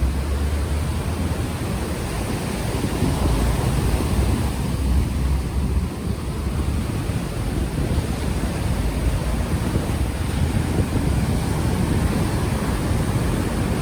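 Ocean waves washing on the shore, a steady surf noise, with wind buffeting the unshielded microphone as a heavy low rumble.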